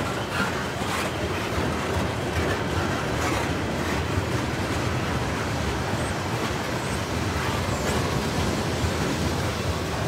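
Freight train cars, mostly tank cars, rolling steadily past: a continuous rumble of steel wheels on the rails with a few light clicks.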